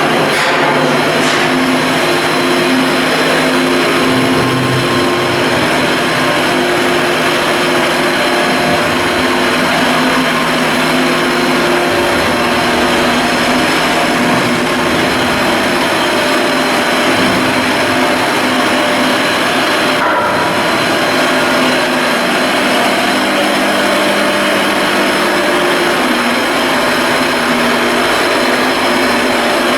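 Loud, steady machinery noise with a constant hum running through it.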